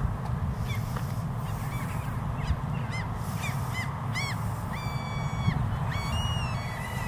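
A bird calling: a run of short calls, about two a second, growing louder toward the middle, then two longer drawn-out calls near the end, over a steady low background rumble.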